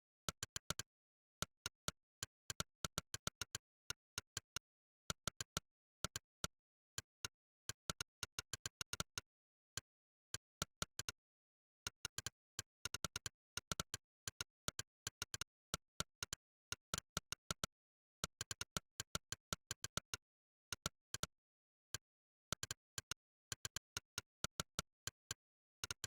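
Monkeytype's 'click' keystroke sound effect: a short synthetic click for every key typed, in quick irregular runs broken by brief pauses, with dead silence between clicks.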